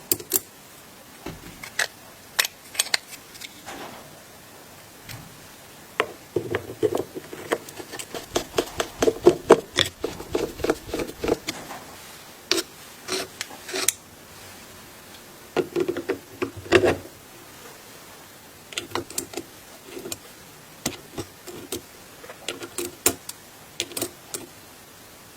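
Irregular clicks, knocks and scraping as small hard parts are handled and worked on by hand during a tool repair. The sound is busiest in a stretch of rubbing and scraping a few seconds in and again past the middle.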